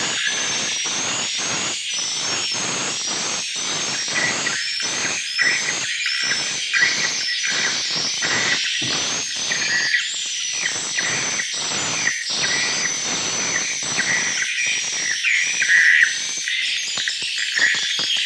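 A dense chorus of swiftlets twittering inside a swiftlet house, with many short, high, repeated chirps over a rapid, irregular clicking that runs several clicks a second.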